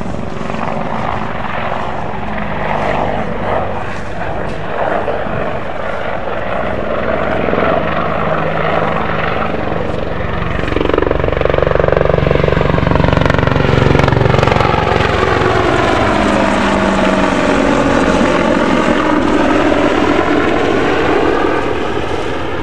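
British Army Apache AH1 attack helicopter flying a display, its twin turbine engines and rotor blades running loud and steady. The rotor's pitched tones sweep down and back up as it manoeuvres, and the sound swells loudest about halfway through.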